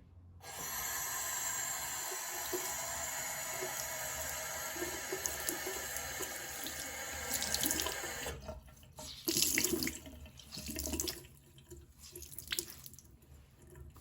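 Water tap running steadily into a sink, shut off after about eight seconds, followed by a few short knocks and splashes.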